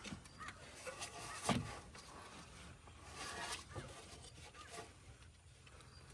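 Hands working spark plug wires onto the plugs in an engine bay: rustling and light knocks, with one sharper knock about one and a half seconds in.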